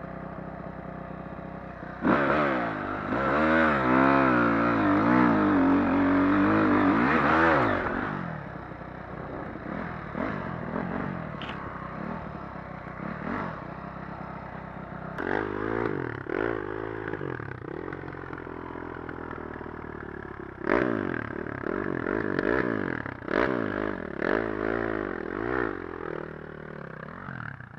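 Dirt bike engine running with repeated revving: a long, loud burst of revs about two seconds in lasting several seconds, then a quieter running stretch and shorter rev blips in the second half.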